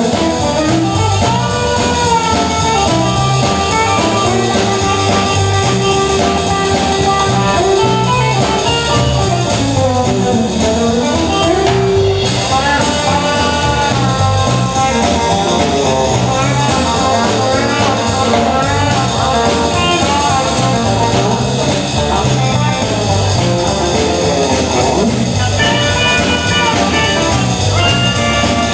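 Live band playing an instrumental passage of a rock-and-roll or blues number, with no vocals, over a steady beat.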